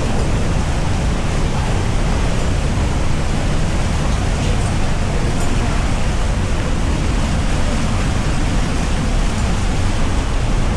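Steady rush of flowing water in a canyon stream, an even, unbroken noise heaviest in the low end.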